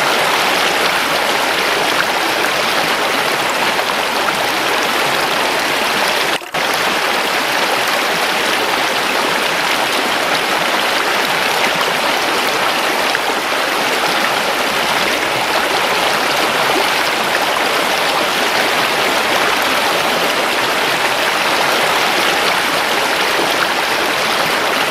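Running water, a steady rush with no change in level, broken once by a momentary dropout about six and a half seconds in.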